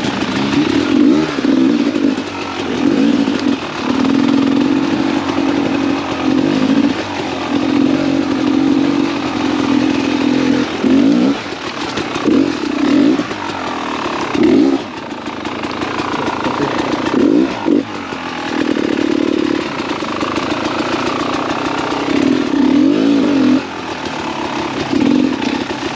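2017 Beta 300 RR two-stroke enduro motorcycle engine running under way, revving up and down with the throttle, with several quick rises and falls in pitch.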